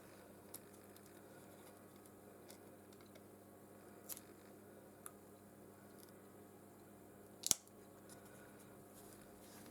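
Small hand repair tools clicking and tapping against a phone being opened: a few short, sharp clicks, the loudest about seven and a half seconds in, over a faint steady hum.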